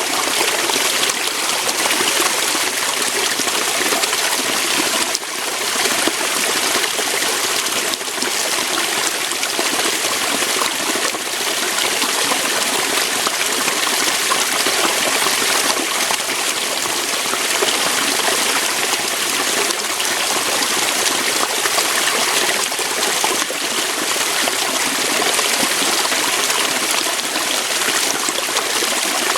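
Waterfall: water pouring over rocks, a steady splashing flow with no letup.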